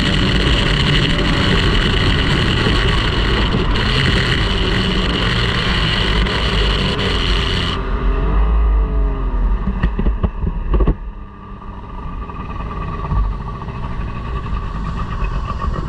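Racing outboard motor running hard, heard onboard with rushing wind and water. About halfway through the sound changes abruptly: the engine pitch falls away, a few sharp knocks follow, and it carries on much quieter.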